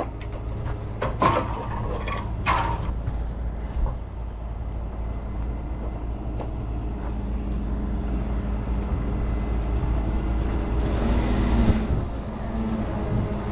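Tow truck's engine running steadily, with a few sharp metallic knocks in the first three seconds and a brief swell in engine noise near the end.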